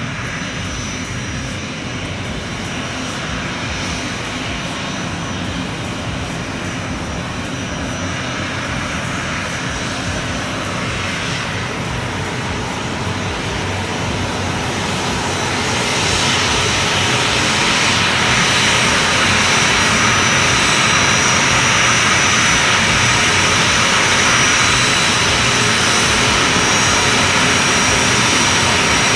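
Airliner's engines running with a steady rush and a thin high whine, growing louder about halfway through.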